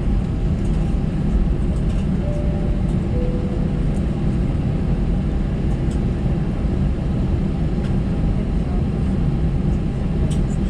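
Steady low rumble inside the cabin of an Airbus A320-214, its CFM56 engines running at taxi power as the aircraft taxis. Two faint short tones sound about two seconds in.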